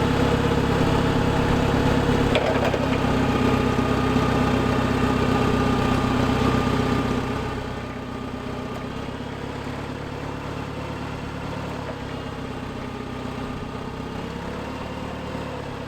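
Clark forklift engine running steadily, then dropping to a quieter idle about seven seconds in.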